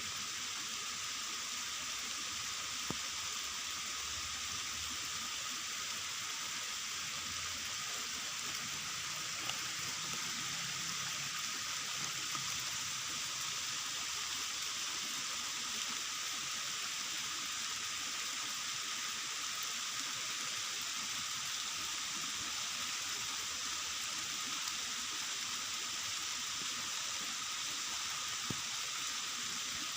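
Steady rain falling, an even hiss throughout with a few light isolated taps.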